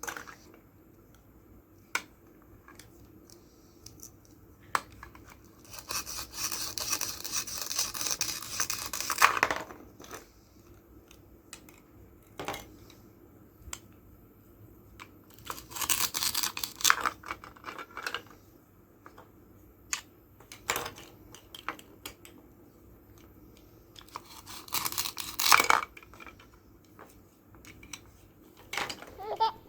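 Toy fruits and vegetables being cut apart, the halves pulling away with a tearing rasp three times, each lasting one to three seconds. Light plastic taps and clicks fall between them.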